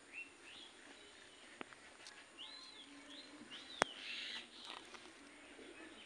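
Faint, short bird chirps, about seven of them, each a quick note that rises and falls, with a sharp click a little before four seconds in.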